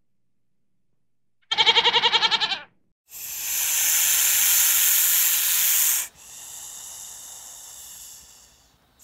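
A goat bleats once, a quavering call of about a second, then a snake hisses: a loud hiss of about three seconds followed by a softer one that fades away.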